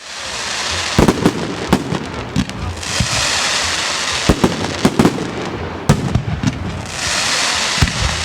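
Fireworks display: sharp bangs of shells bursting, several seconds apart, over long waves of dense crackling hiss from the burst effects.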